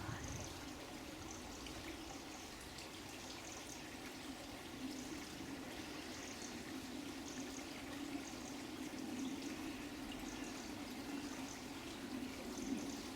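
Running water trickling and flowing steadily, a continuous splashing stream of water.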